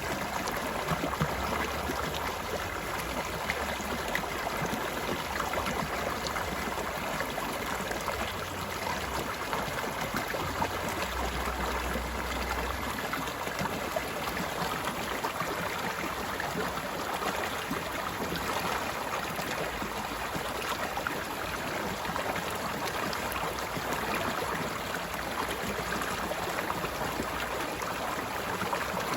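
A stream flowing and gurgling steadily over rocks, an even rush of water.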